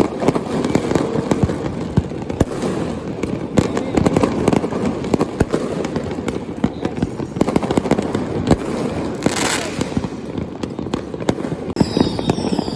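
New Year fireworks display: a dense, continuous barrage of bangs, pops and crackle over a rumbling background, with a brief high hiss about nine seconds in.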